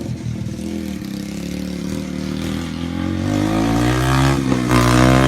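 Yamaha TT-R125 single-cylinder four-stroke dirt-bike engine running at a low, steady speed, then revving up about three seconds in, its pitch rising and the sound getting louder.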